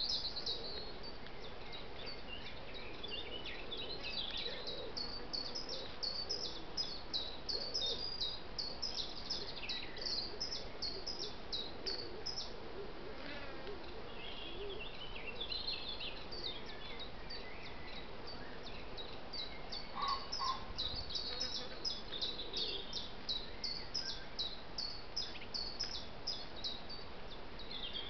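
Small woodland birds singing: quick runs of short, high chirping notes from more than one bird, thinning out briefly about halfway through, over a steady background hiss.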